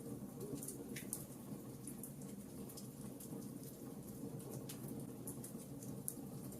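Wood fire crackling: irregular sharp snaps and pops over a steady low rush of burning.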